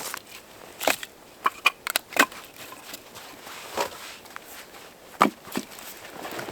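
Split firewood knocking and clattering as it is handled: a quick cluster of sharp knocks, then a few single ones, among crunching steps in snow.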